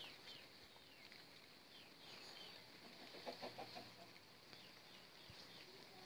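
Faint bird chirping: short falling notes repeated again and again, with a brief run of lower, quick notes a little after the middle.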